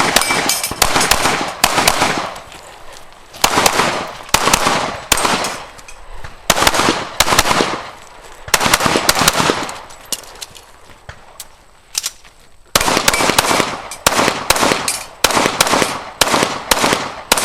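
Pistol fire in an action pistol stage: a long string of single shots, about one every half second to a second, each followed by a short echo. There is a pause of a couple of seconds near the three-quarter mark before rapid fire picks up again.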